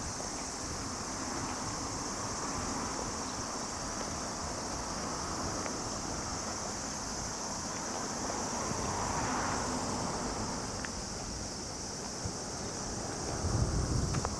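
Steady high-pitched chorus of insects, with wind buffeting the microphone as a low rumble that grows stronger near the end.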